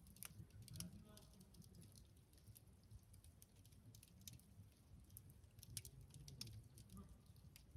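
Wood campfire crackling faintly, with irregular small pops and snaps.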